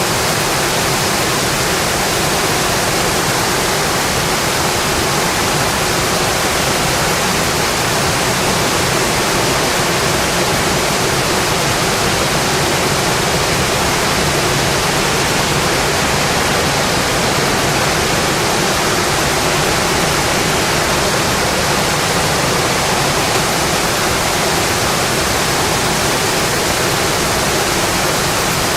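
Steady rain on a windowpane, an even, unbroken rushing hiss with no distinct drops or crackles standing out.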